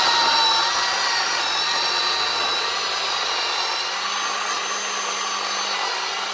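Bauer battery-powered electric chainsaw with a 10-inch bar running steadily as it cuts into a pin oak log: a constant motor whine over the rasp of the chain in the wood.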